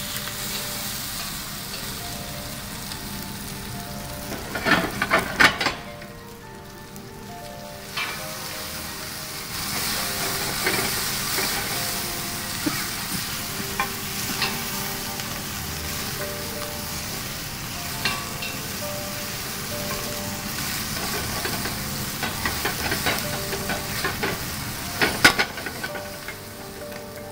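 Potato cubes, garlic, ginger and green chilies sizzling in hot oil in a stainless steel pot while being stirred with a wooden spatula. The spatula clatters against the pot about five seconds in and again near the end, and the sizzle briefly drops away around six seconds in before picking up again.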